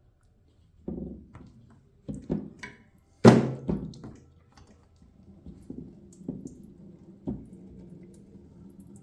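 Several separate knocks and clunks, the loudest about three seconds in, then a faint steady hum from about halfway through.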